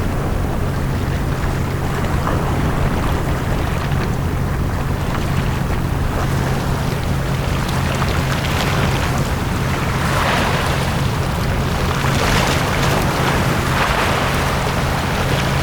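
Small sea waves washing onto a beach, swelling in repeated surges of hiss every couple of seconds in the second half, over a steady low rumble.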